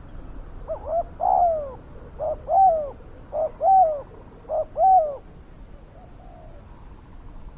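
Spotted dove cooing: four loud phrases in quick succession, each a short note followed by a longer one that falls in pitch. A fainter coo follows near the end.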